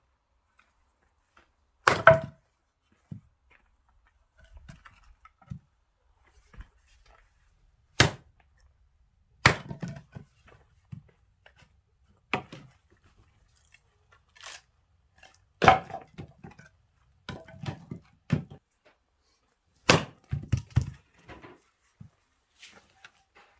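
Axe chopping oak firewood: sharp, separate blows a few seconds apart, the loudest about two seconds in and again past halfway, with smaller knocks between them and a quick run of blows near the end.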